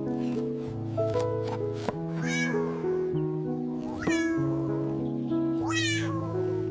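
A cat meowing three times, each meow rising then falling in pitch, over background music of steady held notes.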